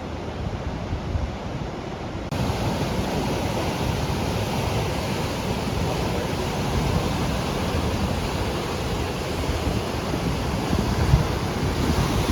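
Ocean surf breaking and washing on a beach, a steady rush of waves, with wind buffeting the microphone in a low rumble. The sound gets abruptly louder and brighter about two seconds in.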